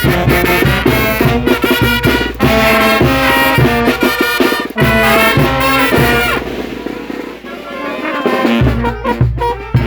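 Mexican brass band playing, with trumpets and trombones over a steady bass and beat. About two-thirds of the way through, the band drops to a quieter, thinner passage, then comes back in full near the end.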